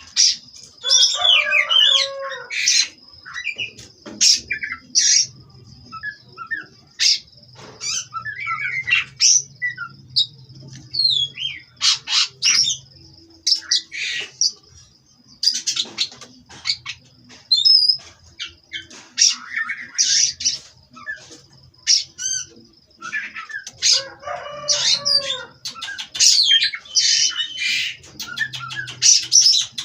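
Oriental magpie-robin (kacer) singing: varied whistles, chirps and rattling phrases in short bursts with brief pauses, over a steady thin high-pitched tone.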